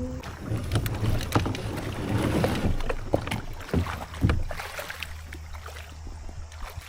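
Knocks and clatter of gear being handled in a plastic fishing kayak, a dense run of sharp hits over the first four seconds or so. Then it settles to a low steady rumble with a few faint ticks.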